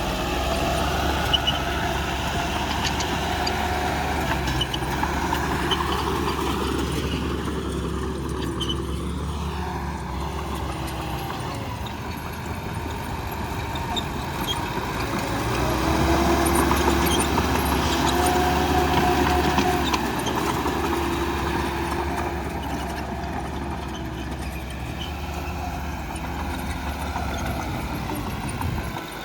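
Heavy construction machine's diesel engine running steadily, with its note rising and growing louder for several seconds past the middle before settling back to a steady run.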